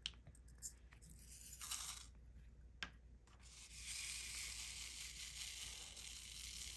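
Diamond-painting supplies handled: a brief plastic rustle about two seconds in, a sharp click, then a steady hissing rustle for the last three seconds.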